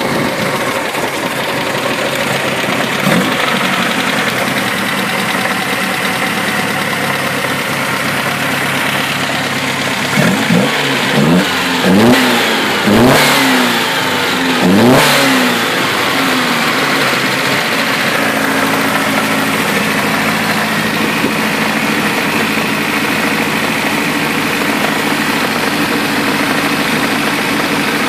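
Holbay-tuned Rootes four-cylinder engine idling just after a start, with one short throttle blip a few seconds in and a run of about five quick revs a third to halfway through, each rising and falling back, before it settles to a steady idle.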